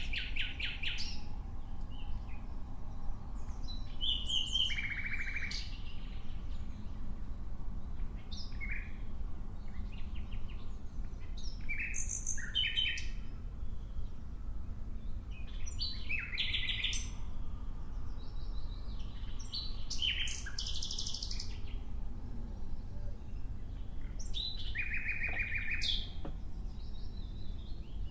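Nightingale singing in short, separate phrases every few seconds, many made of fast repeated notes, with pauses between them. A steady low rumble runs underneath.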